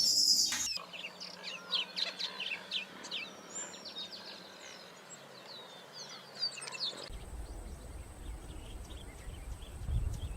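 Small birds calling: a string of short, quick chirps and falling whistled notes. About seven seconds in the sound changes abruptly and wind rumbles on the microphone, with only faint calls.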